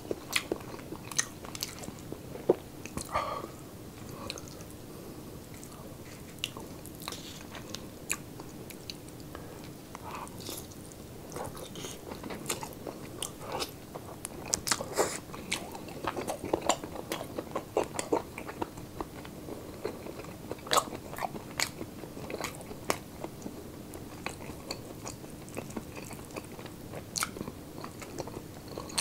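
A person chewing and biting close to the microphone: irregular crunches and mouth clicks as he eats pork sisig, made with crunchy pig ear, and braised beef by hand. A faint steady hum sits underneath.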